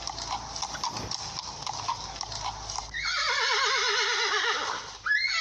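Horse hooves clip-clopping for about three seconds, then a horse neighing in one long whinny that wavers and falls in pitch, with a second short whinny near the end.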